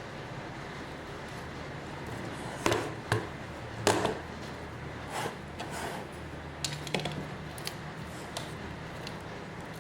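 Packaging being handled by hand while orders are packed: scattered short rustles and sharp knocks, loudest about three and four seconds in, over a steady hiss of rain.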